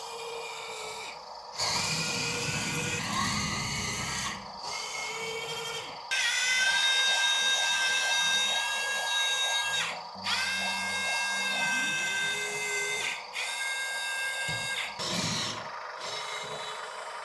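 Tiny electric motors and plastic gears of a 1/50-scale mini RC tracked dump truck, whining in several bursts of a few seconds that start and stop.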